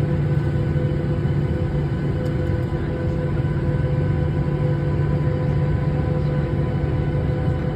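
Steady drone of an airliner cabin in flight or taxiing: engine and air-conditioning noise with a constant low hum.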